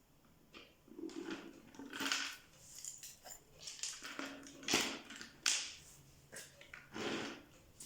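Irregular scraping and rubbing noises: a series of short strokes of uneven loudness.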